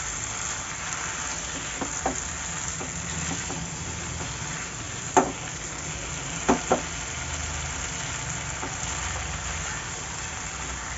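Chicken frying in spiced masala in a pan, a steady sizzle, with a stirring utensil knocking sharply against the pan a few times, the loudest about five seconds in.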